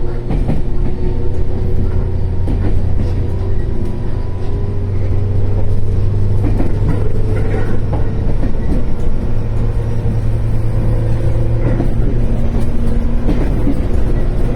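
JR 415 series 1500-subseries electric train running at speed: a steady rumble and low hum, with traction-motor tones that shift in pitch and occasional clicks of wheels over rail joints.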